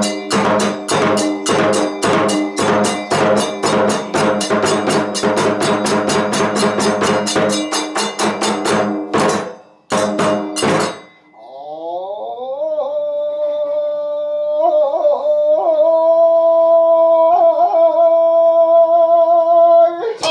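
Kagura festival music: a drum beaten in a fast, steady rhythm with ringing metallic accents, which breaks off about nine seconds in after two final strokes. A single long note then slides upward and is held to the end, wavering slightly twice.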